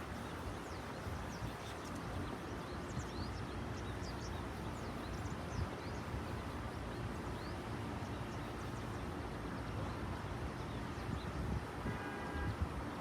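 Steady low outdoor background rumble with faint, brief high bird chirps scattered throughout, and a faint pitched call near the end.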